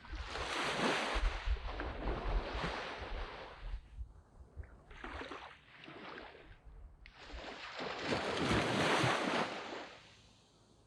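Small waves breaking and washing up a sand beach in three surges: a long one at the start, a short weaker one midway, and the loudest one, which fades away near the end.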